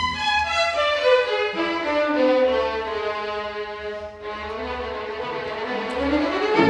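String orchestra playing a slow, sustained passage: the bowed line sinks steadily in pitch, softens briefly about four seconds in, then climbs again as the full strings come back in with a low chord at the end.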